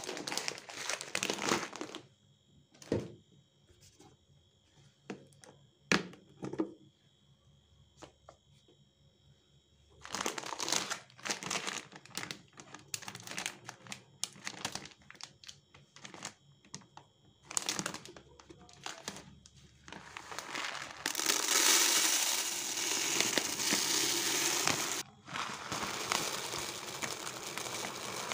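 Plastic packaging and bags crinkling as they are handled, with scattered light knocks. For the last several seconds a steady hiss takes over, with one brief break.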